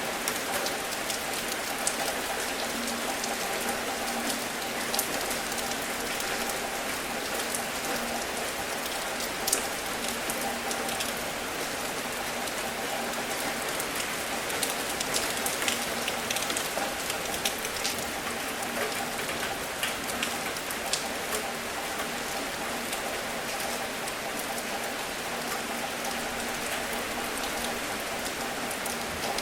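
Steady rain hissing, with scattered sharp ticks of individual drops striking close by.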